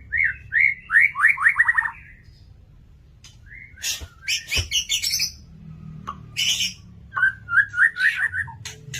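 A murai (white-rumped shama) singing vigorously: quick runs of sliding whistled notes that speed up toward the end of each run, with harsh, scratchy calls in the middle and a short pause after the first run.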